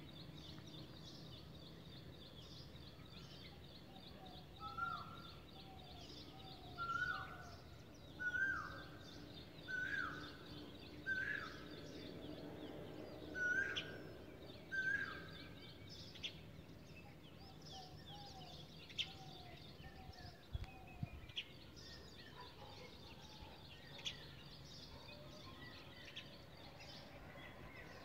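Birds calling outdoors: a series of about seven loud, clear calls, one every second and a half or so, from about five to fifteen seconds in, over steady faint chirping of small birds, with scattered short chirps after.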